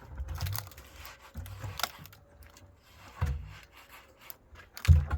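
Wood being handled and worked: rubbing and scraping with scattered knocks, and a heavier thump near the end.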